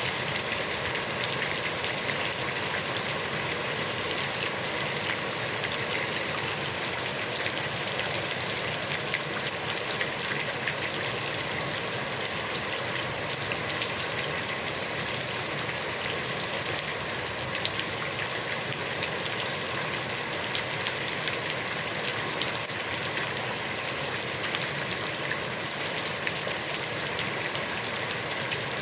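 Heavy rain falling steadily on a pond, a dense even hiss with many separate drops pattering on the water.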